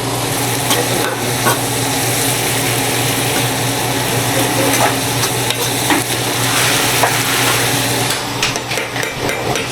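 Food sizzling steadily in a hot, smoking frying pan, with a few short clicks of a utensil stirring against the pan.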